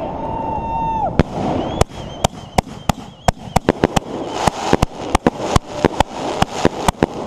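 Fireworks going off: a whistling tone through the first second, then a run of sharp bangs coming faster and faster toward the end over a crackling haze.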